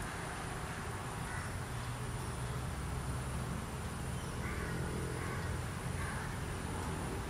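Steady low outdoor rumble with a few faint bird calls over it, about one, four and a half, five and six seconds in.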